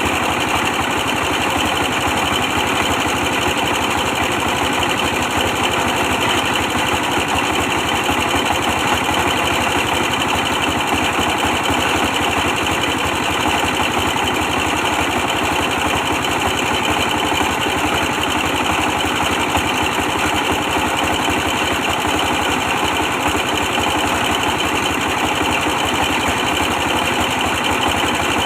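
24 hp diesel engine running steadily at a constant speed, driving a brick press machine.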